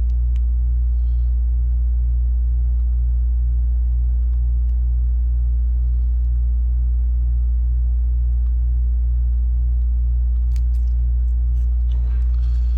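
Air-conditioning unit running: a loud, steady low hum with a throbbing about two to three times a second, and a few faint clicks near the end.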